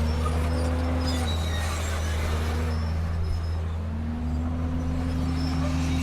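Diesel engine of a Komatsu D31P bulldozer running steadily. Its note sags about a second in and climbs back near the four-second mark.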